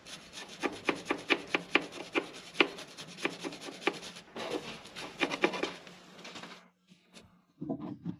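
Rapid scraping or rasping strokes of hand work, about five a second, with a short break near the middle; they stop about six and a half seconds in.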